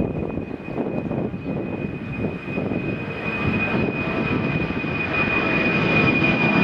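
Jet airliner taking off, its engine noise growing steadily louder, with a steady high-pitched whine over the rumble.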